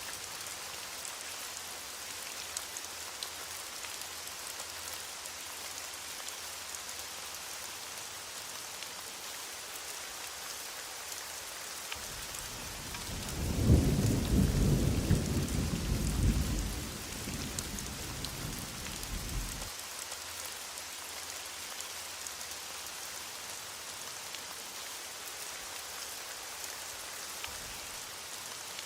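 Heavy rain falling steadily, with a rumble of thunder about midway that swells quickly, peaks, and dies away over several seconds.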